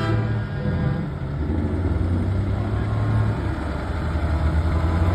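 Heavy diesel engine of a semi truck running steadily, a deep rumble.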